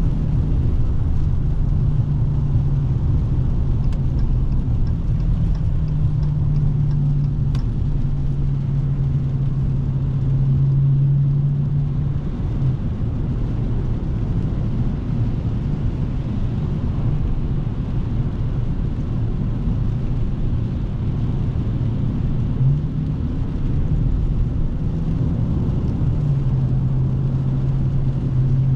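Dodge Scat Pack's 392 HEMI 6.4-litre V8 at a steady cruise, a low even exhaust drone. The drone eases off about halfway through and comes back stronger near the end.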